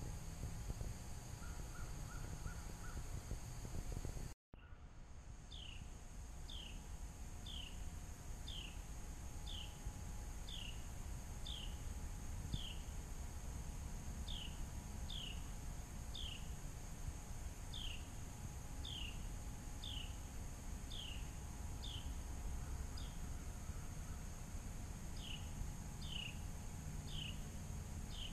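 A bird repeating a short call note that falls in pitch, about one or two a second with a few short pauses, over a steady low rumble. The sound drops out for a moment about four seconds in.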